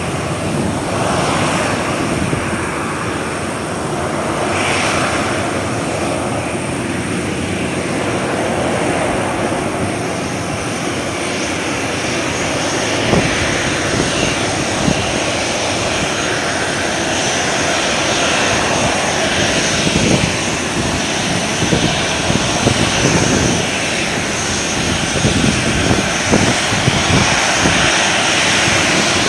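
Jet airliner engines running loud and steady. Sharp crackles come through from about halfway in.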